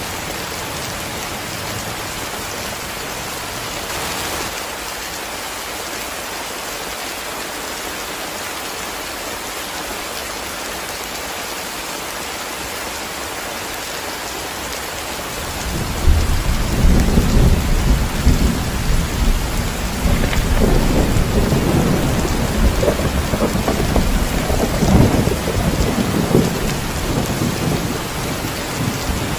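Heavy rain pouring steadily. About halfway through, a long rumble of thunder starts and rolls on for over ten seconds, easing near the end.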